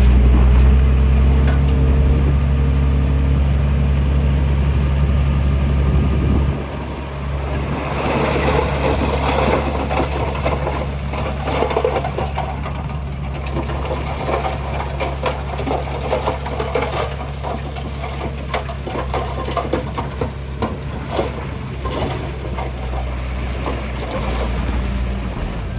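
Heavy diesel earthmoving machine running steadily. It is loud at first and eases off after about six seconds. From about eight seconds in, continual clattering and scraping of stone and earth carries on over the engine.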